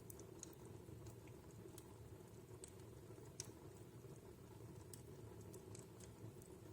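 Wood fire in a fireplace crackling quietly: irregular sharp snaps and pops over a low steady rumble, with one louder pop about three and a half seconds in.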